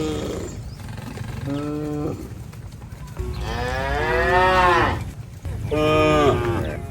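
Cattle mooing: a call tails off about half a second in, then a short moo, a long moo lasting about two seconds that rises and falls in pitch, and another moo near the end.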